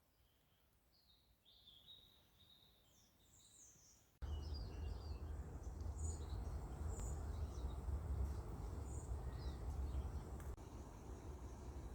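Small birds chirping in short, high calls. About four seconds in, a loud low rumble of wind on the microphone starts suddenly and continues under the birdsong.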